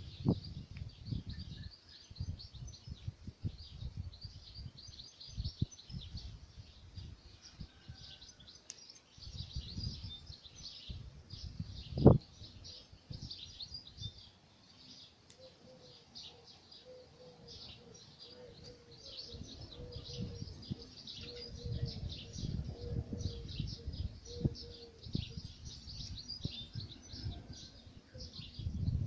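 Many small songbirds chirping continuously in a dense chorus, over a low rumble on the microphone, with one sharp knock about twelve seconds in.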